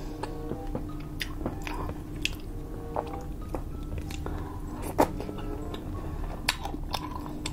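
Close-up chewing and biting of air-fried pork belly with its skin on, with sharp, irregular wet and crunchy mouth clicks, the loudest about five seconds in.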